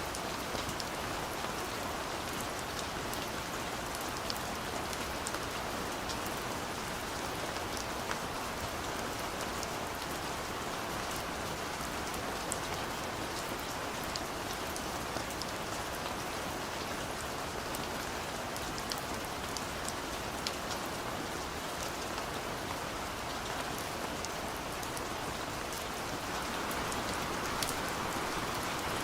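Steady rain falling on a surface, a continuous patter with scattered individual drop ticks.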